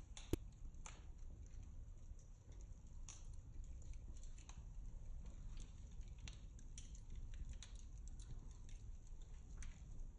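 Irregular light clicks and taps, one sharper knock about a third of a second in, over a low steady rumble.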